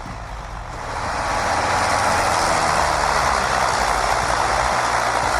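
Heavy truck engine running, with a steady rushing noise over it; the sound grows louder about a second in and then holds steady.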